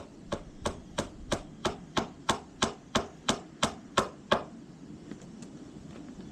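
A rapid, even run of about a dozen hammer blows, roughly three a second, getting a little louder before stopping about four seconds in.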